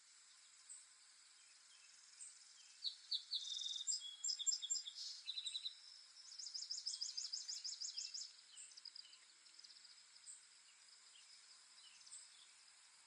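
Songbirds chirping: scattered faint high chirps, a burst of song a few seconds in, then a fast trill of repeated high notes, about seven a second, lasting around two seconds. A faint steady hiss runs underneath.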